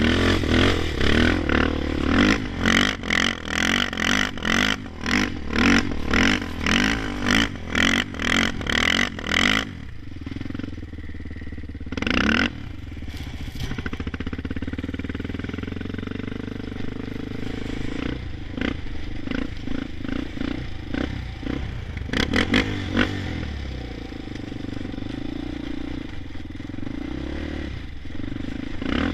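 Honda 400EX ATV's single-cylinder four-stroke engine held on the rev limiter, stuttering in a fast, even rhythm as the ignition cuts in and out. About ten seconds in it drops to a lower, steadier run, with a short blip of revs twice more.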